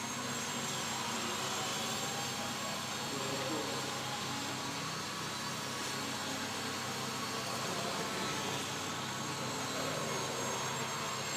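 Small electric motor and propeller of a Kyosho Extra 330SC micro RC plane buzzing steadily in flight.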